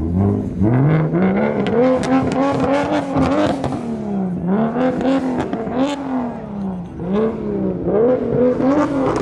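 A car engine revved over and over, its pitch climbing and falling back every second or so, with sharp crackles scattered through.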